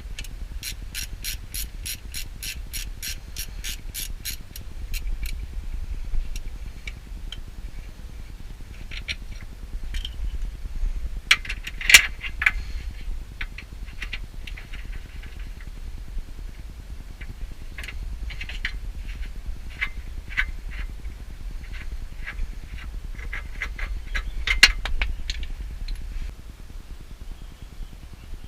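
Ratchet wrench clicking in a quick even run of about four or five clicks a second, then scattered metal clicks and clinks of tools, with one sharp knock near the middle.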